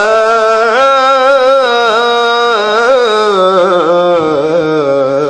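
A man's voice singing an Arabic nasheed, drawing out one long melismatic phrase. It enters with a rising swoop and then holds wavering notes full of quick trills and pitch bends.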